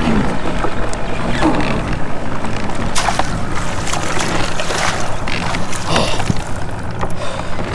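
Water sloshing against a fishing kayak's hull with wind on the microphone, and a few light knocks scattered through.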